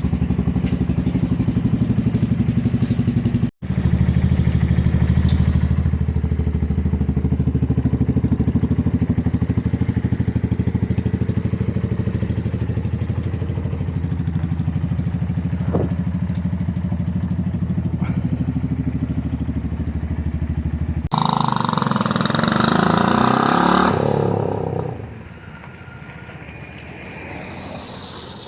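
A 250 cc motorcycle engine running steadily at idle, with a brief break about three seconds in. About three quarters of the way through it changes abruptly to a louder, higher sound with shifting pitch that fades away over the last few seconds.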